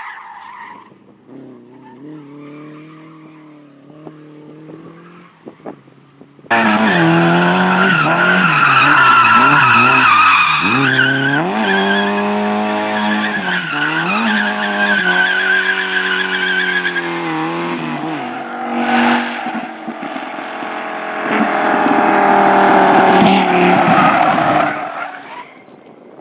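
Race car engine working hard under load, its pitch dropping and climbing again several times as it changes gear and lifts off, with tyres squealing. It is fainter at first, then suddenly much louder about six and a half seconds in.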